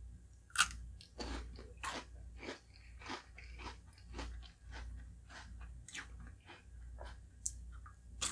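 Close-miked chewing and crunching of a mouthful of halo-halo, the Filipino shaved-ice dessert with ube ice cream, in a run of crisp crunches about two a second. A sharp click about half a second in is the loudest sound.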